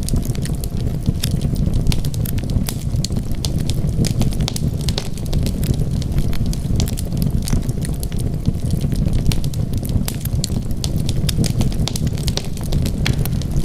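Wood fire burning: a steady low rumble of flames, with frequent irregular crackles and pops from the burning wood.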